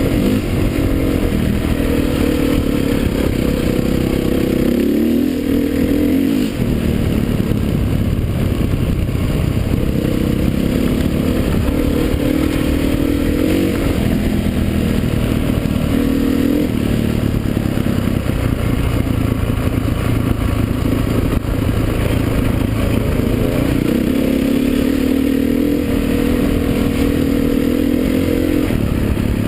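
Off-road motocross motorcycle engines running hard, their pitch rising and dropping again and again as the bikes accelerate and shift.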